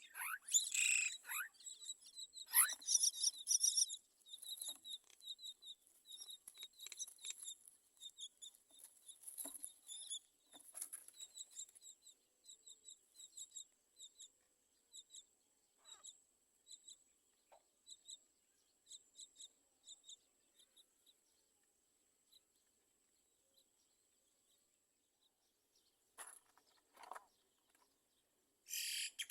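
Myna birds chirping: a dense burst of loud high chirps in the first few seconds, then a long run of short high chirps, about two a second, that thin out. After a quiet stretch there are a few louder bursts near the end.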